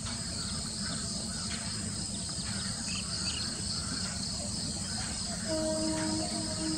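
A steady chorus of crickets with a high, even ringing and scattered short chirps. From about five and a half seconds in, a low held tone joins, sounding on and off.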